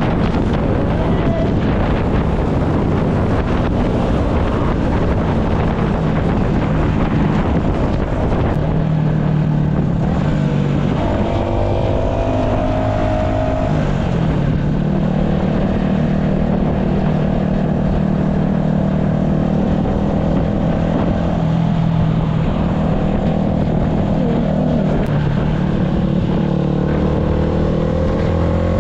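Yamaha MT-125's single-cylinder four-stroke engine running continuously under way. Its note shifts in pitch a few times and climbs near the end, with wind noise across the microphone.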